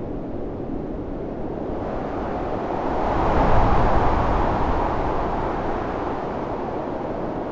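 Storm wind blowing in a steady rush that swells into a stronger gust about halfway through, then eases back.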